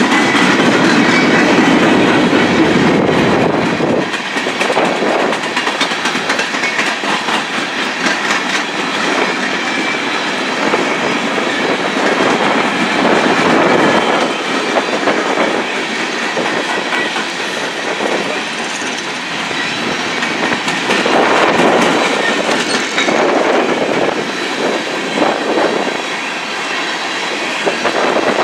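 A long string of steel coal gondolas rolling past at close range: the steady rumble of steel wheels on rail, with wheel sets knocking over rail joints in an uneven clickety-clack.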